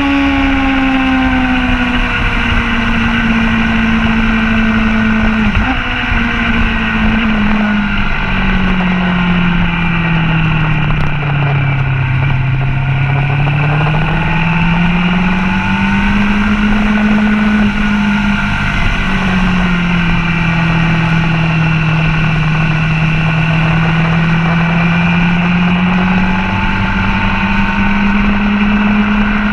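Motorcycle engine heard onboard at speed on a race track, its pitch falling as the bike slows for a corner about twelve seconds in, then rising again as the throttle is picked up on the exit, then easing and rising once more.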